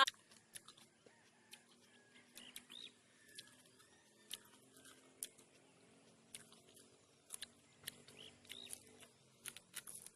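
Faint outdoor ambience: a few short chirps from birds and scattered small clicks.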